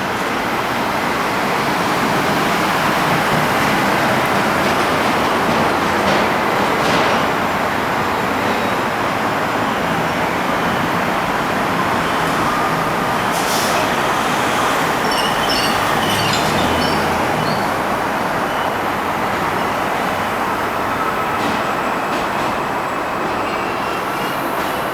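Subway train running on steel rails, a steady loud rumble and rail noise, with a few brief high wheel squeals about two-thirds of the way through.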